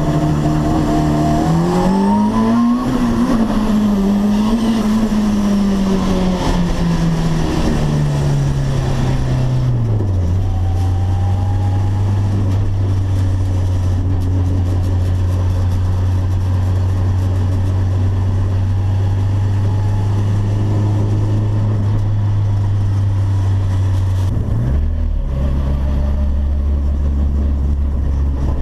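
Turbocharged VW Gol engine accelerating hard, its note rising steeply about two seconds in and then easing back down over the next several seconds. It then runs at one steady note for about fifteen seconds, and near the end the note dips and settles lower.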